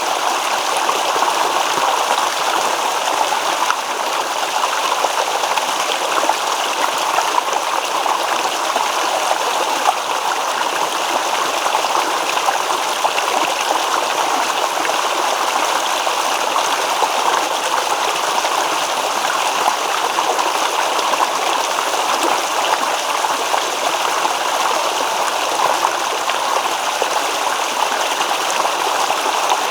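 A shallow stream babbling and rippling steadily over stones.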